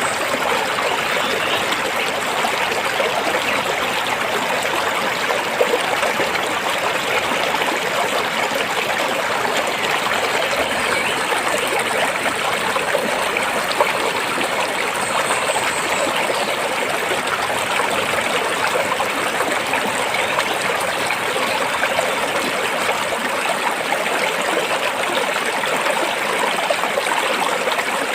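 A stream of water flowing and trickling over rocks in a steady, even rush.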